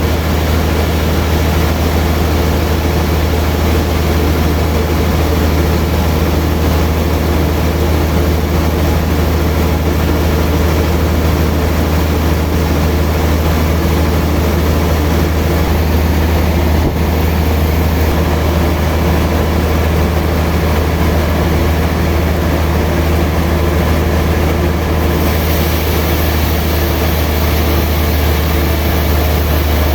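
Sawmill machinery running steadily, with a strong low hum under a wide hiss; the hiss grows brighter about 25 seconds in.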